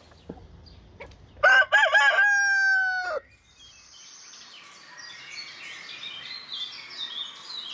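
A rooster crows once, starting about a second and a half in: a few short broken notes, then a long held note that falls slightly before cutting off. After it, small birds chirp faintly and busily.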